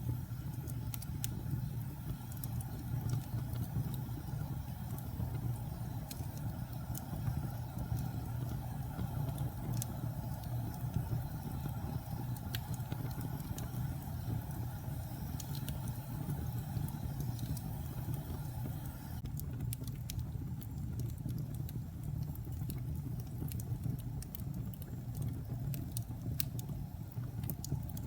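Wood fire burning in a fireplace: a steady low rumble with scattered sharp crackles and pops, which come more often in the last third.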